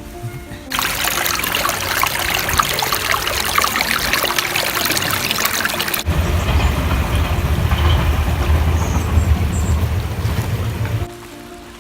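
Running river water splashing close to the microphone. About six seconds in it turns into a lower rumbling rush, which stops abruptly shortly before the end.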